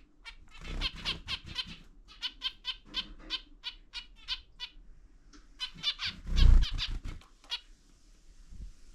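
Zebra finches giving a rapid series of short, nasal beeping calls, about three to four a second, broken by a louder low bump about six and a half seconds in.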